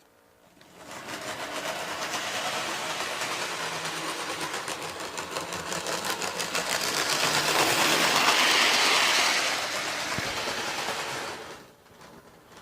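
Model train running along its track: a fast clicking rattle of wheels on rail that grows louder as it passes close by about eight to nine seconds in, then fades away near the end.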